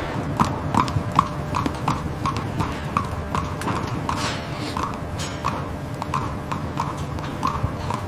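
Hooves clopping at an even walking pace, about three steps a second, over a steady low rumble.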